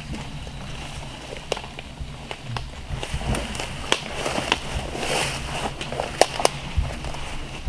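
Footsteps crunching through dry leaves and twigs on a forest floor, with scattered sharp snaps that grow more frequent about halfway through, over a steady high-pitched buzz.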